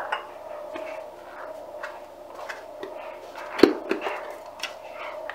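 Light clicks and knocks of household objects being handled, with one louder knock about three and a half seconds in, over a steady low hum.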